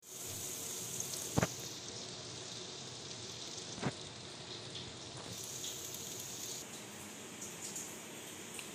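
Chicken frying in hot oil: a steady sizzle with two sharp pops, about one and a half and four seconds in, and a few small crackles.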